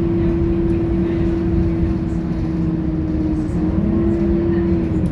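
Scania K230UB bus running along with a steady engine rumble and a steady whine that falls slightly in pitch near the end as it eases off.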